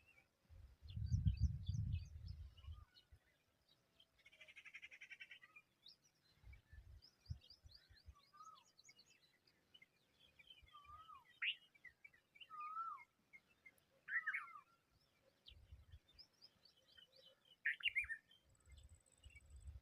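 Birds calling: many short, high chirps throughout, a harsh buzzy call about four seconds in, and a few louder falling whistled calls in the second half. A low rumble comes about a second in.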